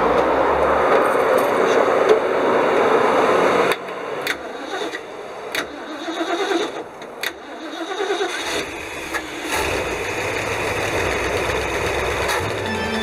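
1969 Ford Econoline 200's V8 engine on its first start after servicing. It cranks loudly for the first few seconds, cuts off suddenly, goes through a quieter, uneven stretch, then settles into a steadier low rumble as it catches near the end.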